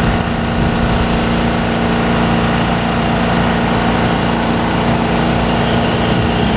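Demolition excavator's diesel engine running steadily, with a low rumble.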